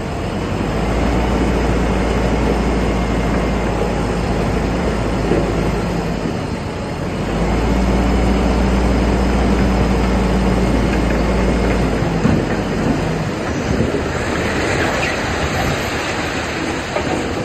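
A bulldozer's diesel engine working under load, its tracks running. The low engine drone swells twice and then eases, and a few clanks come near the end.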